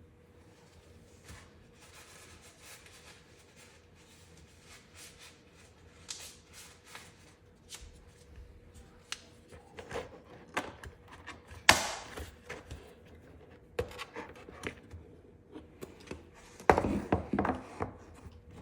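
Dish drying rack parts handled and fitted together by hand: irregular clicks, knocks and rattles of rack pieces. A sharp clack comes about twelve seconds in, and a cluster of louder knocks near the end.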